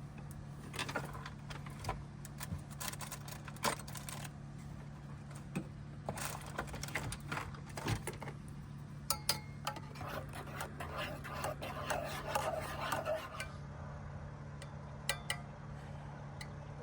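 Clinks, taps and rubbing of a spoon, mug and coffee jar as instant coffee is made, with a spell of gritty stirring or scraping near the middle. A steady low hum runs underneath.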